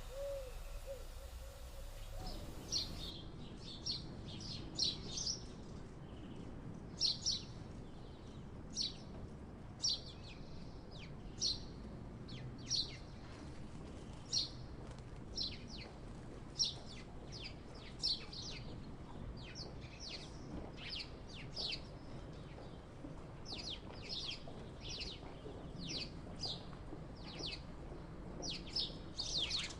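House sparrows chirping: many short, high chirps in quick irregular runs, starting about three seconds in.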